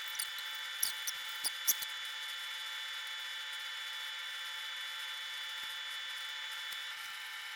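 A small electric motor or fan at a repair bench whirring steadily with a thin whine, cutting off near the end. Light ticks and clicks of small tools sound in the first two seconds.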